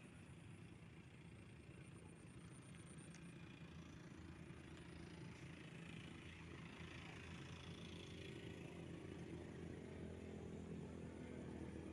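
Faint, steady engine hum that slowly grows louder, with a thin high pulsing whine above it.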